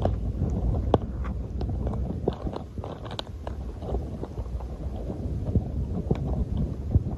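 Low rumbling wind noise on the microphone, with scattered sharp clicks and crackles.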